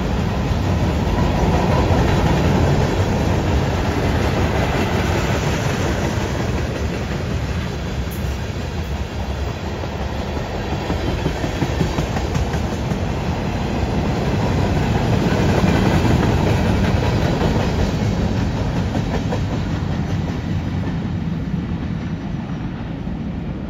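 Freight cars of a CN freight train rolling past: the steady noise of steel wheels running on the rails, easing slightly near the end.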